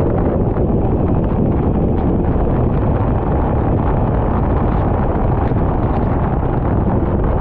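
Loud, steady wind buffeting on the microphone of a racing kart running at speed, a dense low rumble with no clear engine note standing out.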